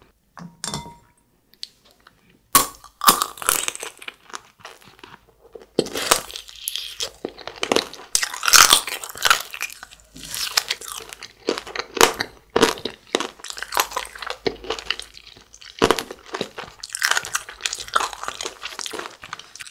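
Crunching and chewing of a frozen jelly candy coated in hard tanghulu sugar syrup, with crackly, irregular bites starting about two and a half seconds in.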